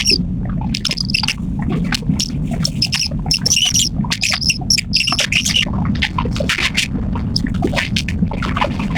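Fishing boat's engine running with a steady low rumble, with repeated short, high squawks and clicks over it.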